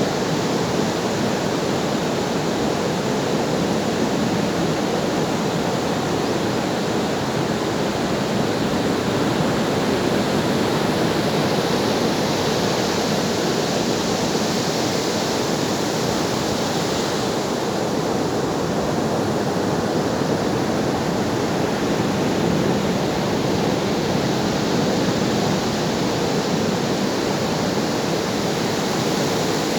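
Ocean surf: waves washing as one steady, continuous rush with no separate breaks, the hiss brightening slightly a little before midway.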